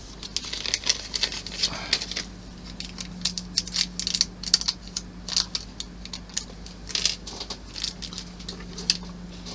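Irregular light clicks and taps of small plastic model parts and tiny screws being handled and screwed in by hand.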